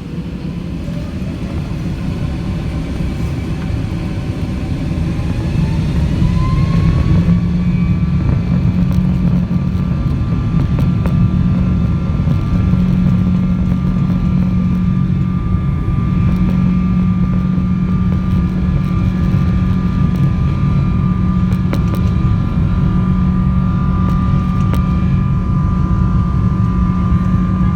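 Jet airliner's engines spooling up to takeoff power, heard from inside the cabin: a whine rises over the first seven seconds or so, then holds steady over a loud, even rumble as the plane rolls down the runway.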